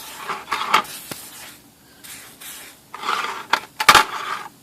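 Short hissing bursts of spray oil onto a metal typewriter case cover, mixed with the clicks and clatter of the metal panel being handled. The loudest sound is a sharp clack about four seconds in.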